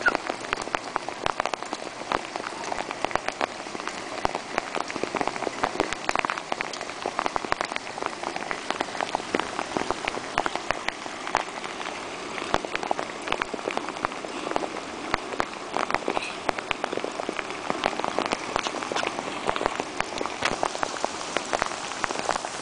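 Steady rain falling, with a dense patter of individual drops striking close by.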